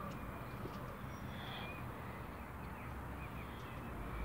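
Faint, distant bird calls: a few short high chirps over a steady low background hum.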